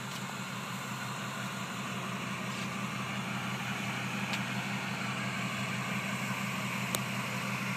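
Truck engine idling steadily, with a sharp click about seven seconds in.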